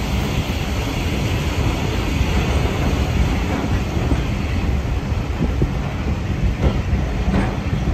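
Carriage of a 15-inch-gauge steam train running on the rails through a tunnel: a steady rumble of wheels on track, with a few sharp clicks of rail joints near the end.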